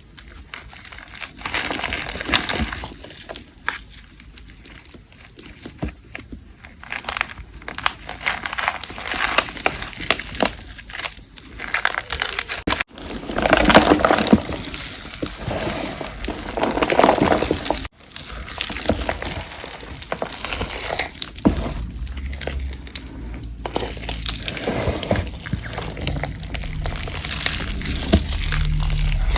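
Gym chalk and cornstarch being crushed and crumbled, a dense run of crunches and crackles. The sound breaks off abruptly twice, about 13 and 18 seconds in.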